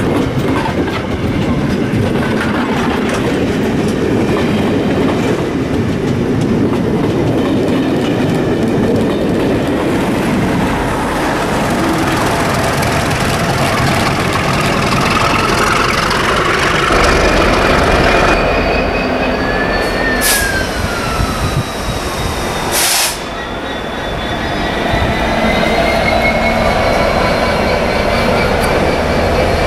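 Diesel-hauled trains running past on the main line: carriages rumbling by with clickety-clack over the rail joints. From about two-thirds in come high, steady wheel squeals. A sudden change about three-quarters in leads to a Direct Rail Services Class 66 diesel locomotive running past.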